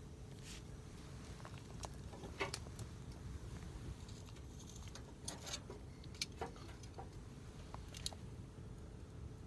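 Campfire wood crackling, with irregular sharp pops and snaps over a low steady rumble.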